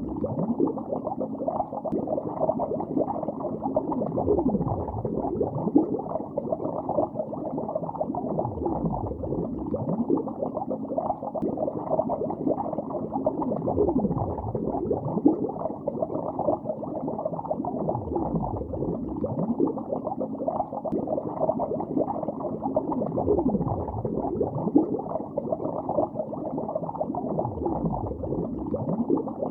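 Steady underwater bubbling, muffled with no treble, made of many small bubbles gurgling and popping, with a deeper falling-then-rising swell returning about every four to five seconds.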